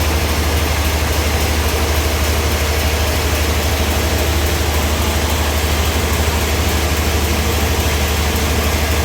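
Sawmill engine running steadily with a loud, even low drone.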